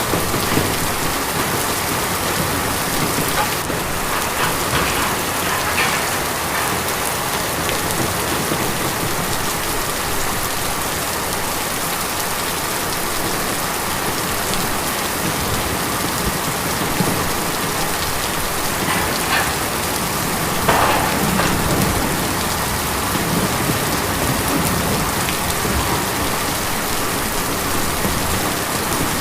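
Steady, heavy rain drumming on a tin roof, with a few brief louder surges of drops.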